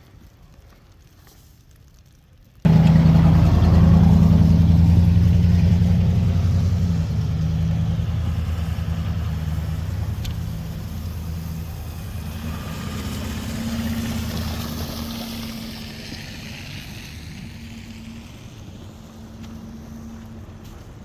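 A motor vehicle's engine, low and heavy, comes in suddenly and loud about two and a half seconds in, then fades slowly as it moves away.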